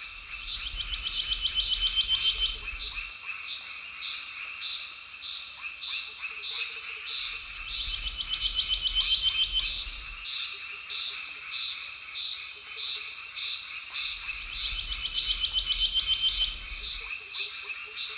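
Chorus of frogs and insects: a rapid trilling call three times, each bout a few seconds long, over a steady high-pitched insect drone and regularly repeated short chirps.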